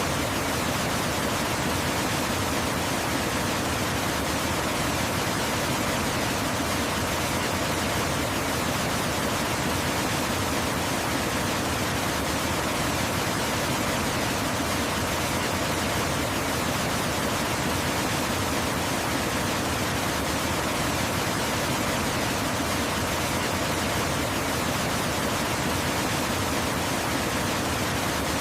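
Waterfall rushing: a steady, unbroken roar of falling water that does not change.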